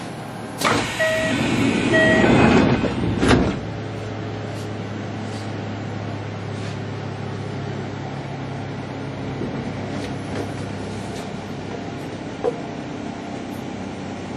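Train door chime sounding twice and the doors sliding shut with a knock, then the commuter train's steady low running hum as it starts to pull out of the station.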